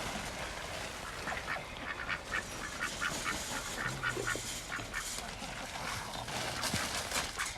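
Domestic ducks quacking, a quick run of many short calls that starts about a second in.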